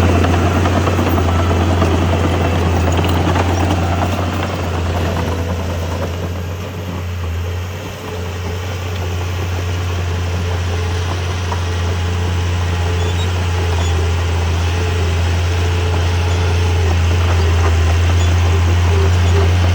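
Diesel engine of heavy earthmoving equipment running steadily with a strong low hum. It eases off briefly about seven seconds in, then builds back up.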